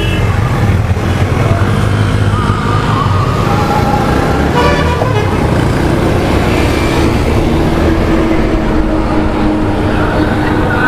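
Motorcycle engine and wind noise while riding in traffic, with a brief horn toot about five seconds in.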